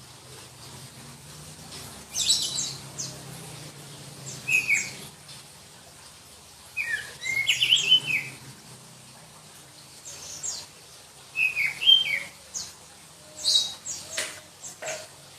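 Black-breasted Oriental magpie-robin (kacer dada hitam) singing: short bursts of shrill, rapid notes every second or two, some sliding downward. A faint low hum sits under the first few phrases and fades out about a third of the way in.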